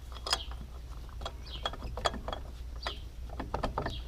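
Scattered light clicks and taps, about a dozen at uneven intervals, over a low steady hum.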